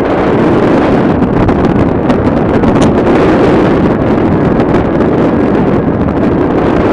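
Loud, steady wind noise buffeting the microphone of a paraglider in flight in strong wind.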